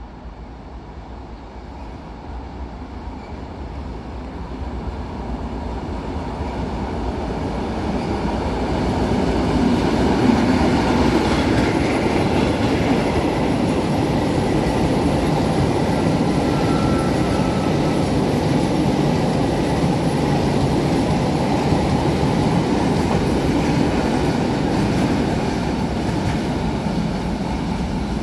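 Berlin U-Bahn type JK train running on the rails, growing louder over the first several seconds as it approaches, then rolling steadily past. A faint brief wheel squeal is heard about halfway through.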